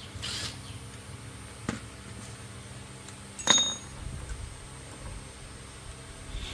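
Metal tools knocking on metal: a soft knock, then about three and a half seconds in a sharp metallic clink that rings briefly, over a low steady hum.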